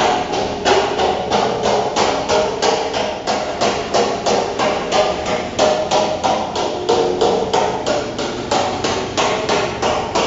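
Steady hammer blows on a steel oil drum, about three a second, the thin sheet metal ringing after each strike as it is cut by hand.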